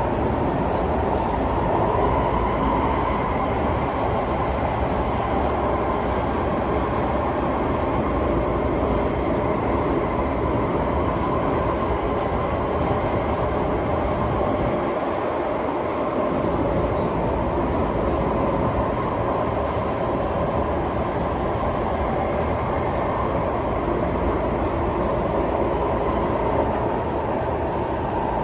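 Singapore MRT train running between stations, heard from inside the carriage: a steady rumble of wheels on rail with a steady tone sounding above it.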